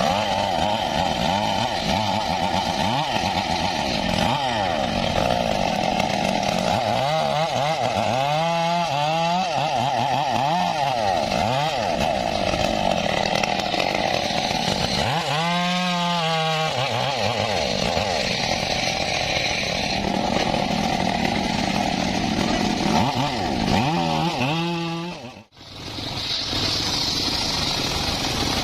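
Engine-driven saw running and cutting mahogany wood. The engine note dips and rises several times as the blade takes the load. Near the end the sound breaks off sharply for a moment, then resumes.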